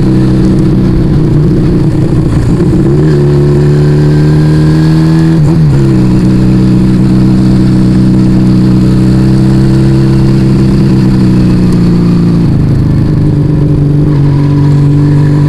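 Yamaha Vega ZR motorcycle engine breathing through an aftermarket Arrow exhaust while riding. The revs climb, dip briefly, hold steady at a cruise, then drop about two-thirds of the way through.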